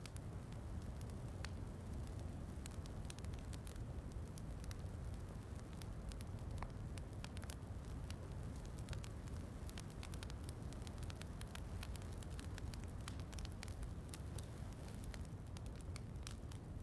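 Fireplace fire crackling, with many scattered sharp pops over a steady low rumble.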